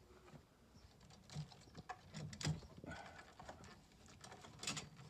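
Scattered clicks and light knocks of hands taking the batteries out of a Stannah 600 stairlift.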